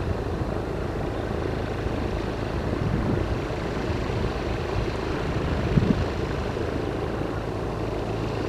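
Light single-engine propeller plane's piston engine running steadily, with a low even hum.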